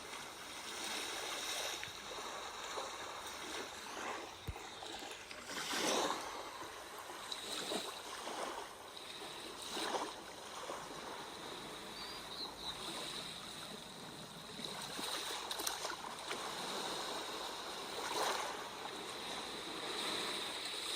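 Sea waves washing on a shore, an even wash of surf swelling and easing in irregular surges every few seconds.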